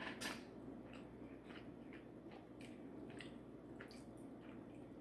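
Faint chewing with scattered wet mouth clicks and smacks, close to the microphone.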